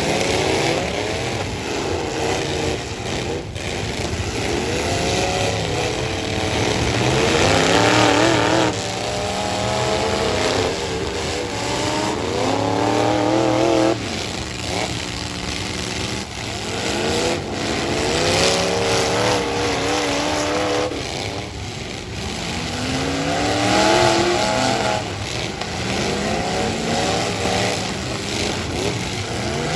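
Several full-size pickup truck engines revving hard in a demolition derby, their pitch rising and falling over and over as the trucks accelerate, back up and ram one another.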